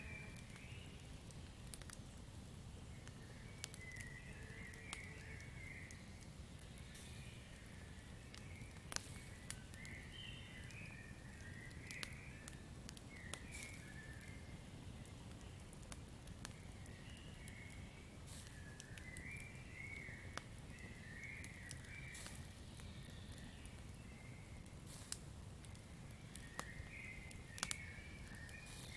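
Campfire crackling, with scattered sharp pops and snaps over a low steady rumble. Short chirping calls of night-forest creatures come and go every few seconds.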